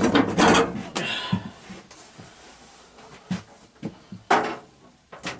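Handling noise as the garden tractor's hood is lifted off and the camera set up again. A clatter in the first second, then a few separate knocks and clunks, with one louder short burst about four seconds in.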